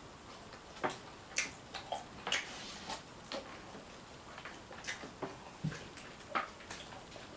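Seafood-boil shellfish being peeled and eaten: irregular sharp clicks and crackles of shell and mouth sounds, about a dozen scattered unevenly.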